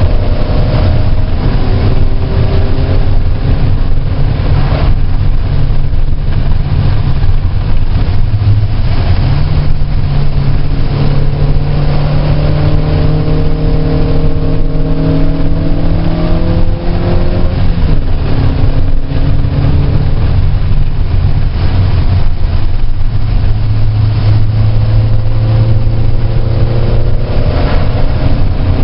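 Car engine run hard around a track, its pitch climbing steadily and dropping back several times as it shifts gears and lifts off, over a steady hiss of road noise.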